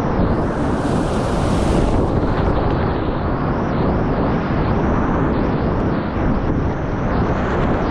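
Loud, steady rush of whitewater rapids around a kayak, with heavy low rumble from water and wind buffeting the action-camera microphone; a brighter splashing hiss rises for a second or so near the start.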